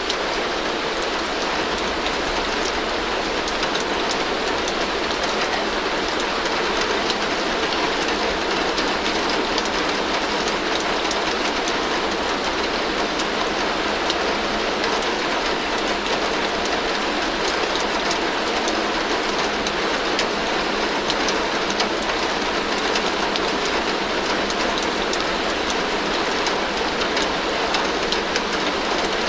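Heavy rain falling steadily on a tin roof: a dense, even patter with fine individual drop ticks and a low rumble underneath.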